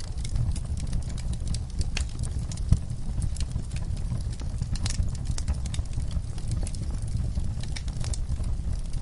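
Wood fire in a fireplace crackling: irregular snaps and pops over a steady low rumble, with one sharper pop a little under three seconds in.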